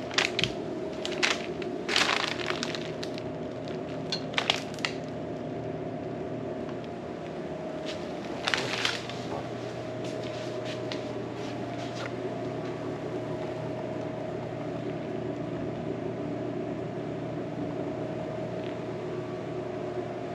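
Scattered crinkling and crackling handling noises in the first few seconds and again briefly about eight seconds in, over a steady hum.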